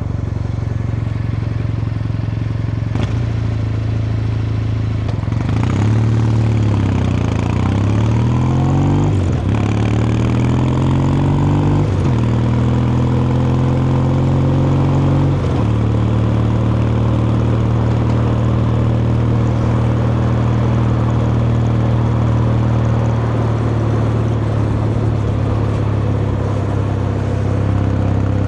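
Kawasaki Meguro K3's air-cooled vertical-twin engine and exhaust under way: the engine note sags about five seconds in, then climbs through three gears with a brief drop at each upshift, and settles into a steady cruise for the rest.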